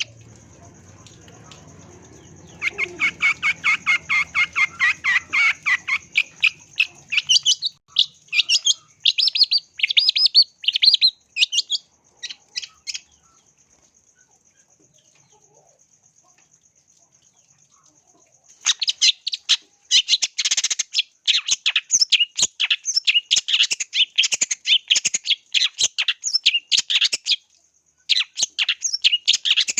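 Long-tailed shrike (cendet) singing in rapid runs of short, quick notes, breaking off for about five seconds midway and then starting again. A thin, steady high tone runs underneath throughout.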